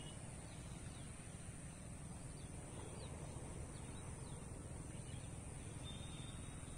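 Faint, steady outdoor ambience with a low hum and a few short, faint bird chirps scattered through it; a thin, high, steady tone comes in near the end.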